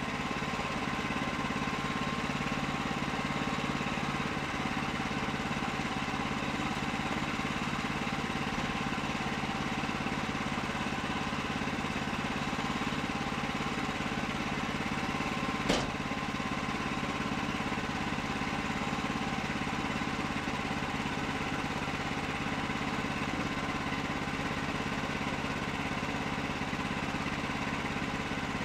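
An engine running steadily at an even speed, with no change in load. A single sharp knock comes about halfway through.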